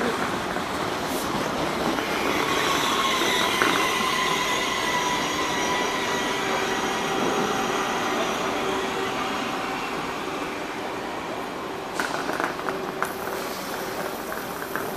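TGV trainset rolling slowly past, wheels and running gear running with steady high-pitched squealing tones that sag slightly in pitch. A quick run of sharp clicks comes near the end.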